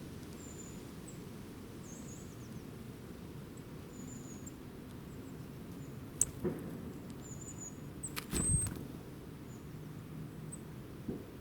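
Small birds chirping with brief, thin, high-pitched calls over a steady low outdoor background. A few sharp clicks or taps cut in, the loudest cluster about two-thirds of the way through.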